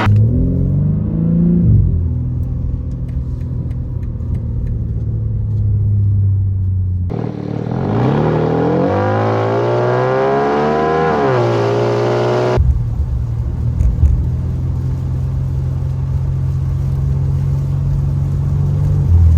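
BMW M3 Competition (G80) twin-turbo inline-six exhaust, heard in several edited segments: a brief rev that rises and falls, then steady running; about seven seconds in, a different segment with the pitch climbing for several seconds under acceleration; and from about twelve seconds, a steady drone that drops near the end.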